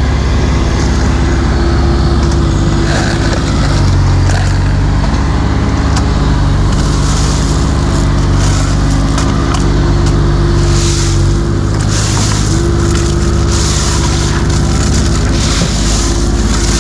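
Excavator's diesel engine running under load, its pitch stepping up and down as the machine works. A hissing noise comes and goes over the second half.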